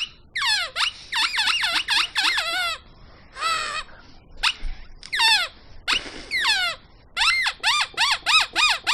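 High-pitched squeaks repeated in quick runs, each squeak sliding down in pitch, with short pauses between the runs.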